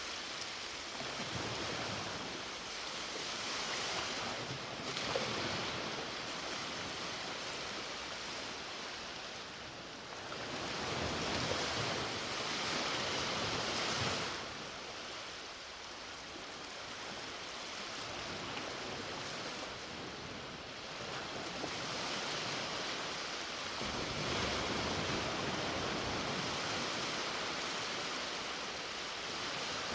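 Sea waves breaking and washing up on a beach, a steady rush of surf that swells and fades every several seconds.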